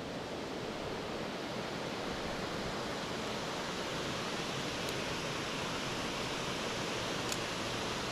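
Steady rush of creek water spilling over a small waterfall, with two faint ticks in the second half.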